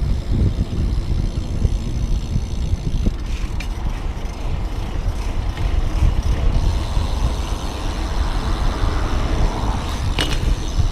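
Steady wind rushing over a head-mounted action camera's microphone while riding a bicycle through traffic, with road noise and a few faint clicks.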